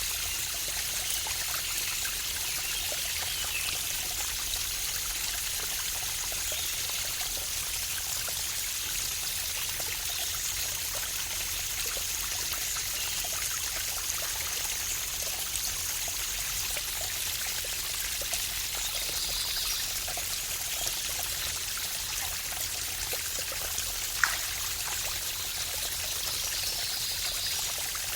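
Waterfall running steadily: an even hiss of falling water. A single sharp click sounds once, near the end.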